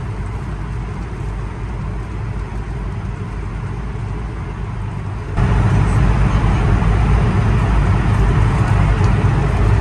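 Cabin noise inside an Airbus A220 jet airliner: a steady rush of engine and air noise over a low hum, which jumps louder about halfway through.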